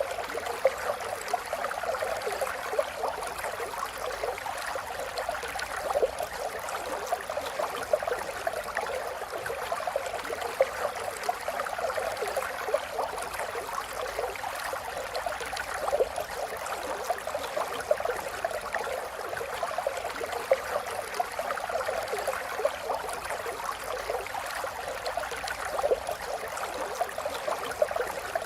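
Flowing water running steadily, with many small splashes.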